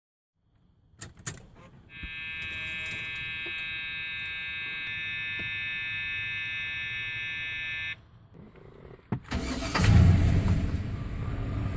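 A couple of clicks, then a steady electronic warning chime for about six seconds, then the 1995 Cadillac Fleetwood's LT1 V8 cranks and starts about nine seconds in, revving up briefly before settling into an even idle.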